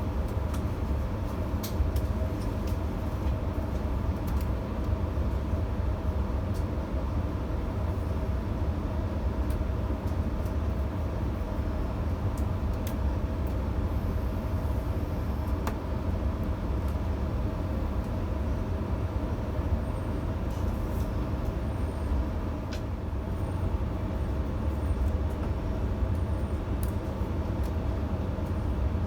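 Electric passenger train running between stations, heard from inside the carriage: a steady low rumble with scattered light clicks from the wheels on the track.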